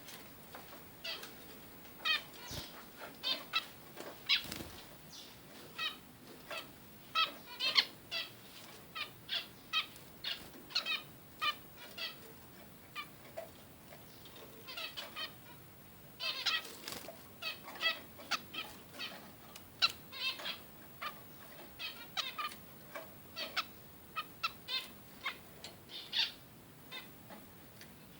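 Zebra finches calling: short nasal beeping calls, repeated one or two times a second throughout.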